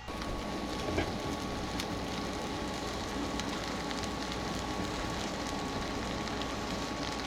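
Quesadillas sizzling and crackling in a hot pan, a steady sizzle dotted with small pops that starts abruptly.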